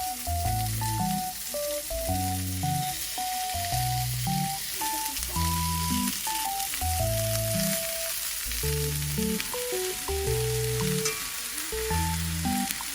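Food frying in hot oil in a pan, an even sizzle, under background music with a simple melody and a bass line that repeats.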